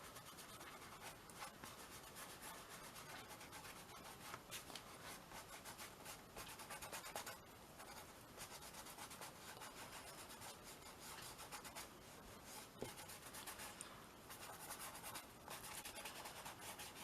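Fingertip rubbing and blending wet colour on a small canvas: faint, repeated short scratchy strokes.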